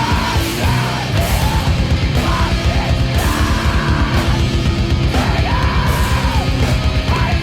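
Loud, aggressive heavy rock music: fast, dense drumming under distorted guitars, with yelled vocals coming in and out.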